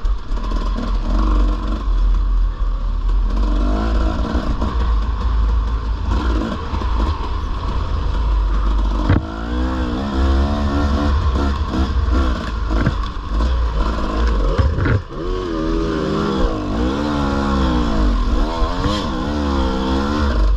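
Dirt bike engine being ridden through sand, its revs rising and falling again and again, more so in the second half, over a steady low rumble.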